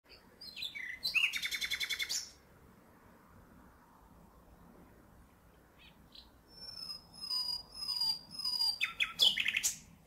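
Wild songbirds calling: a loud rapid trill about a second in, a run of four down-slurred whistles from about six seconds, and another rapid trill near the end. Under them runs the faint steady rush of a distant waterfall.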